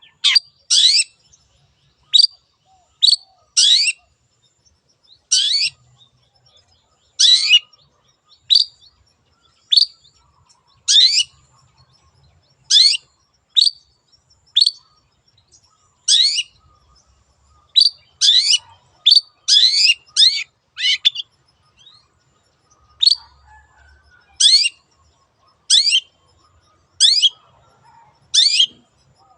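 Long-tailed shrike (cendet) giving a long series of short, sharp, high calls, each sweeping downward in pitch, roughly one a second, with a quicker run of calls about two thirds of the way through.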